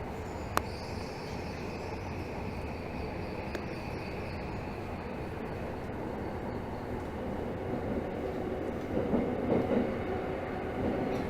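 Tokyo Metro 13000 series subway train running, heard from inside the car: steady rumble of wheels on the rails, with a sharp click about half a second in and a faint high squeal for a few seconds near the start. The rumble grows louder with a few knocks near the end.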